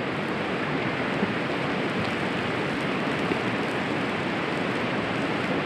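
Steady, even rushing of water, with no distinct events.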